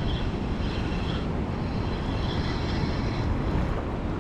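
Big waterfall rushing, a steady deep roar of falling water.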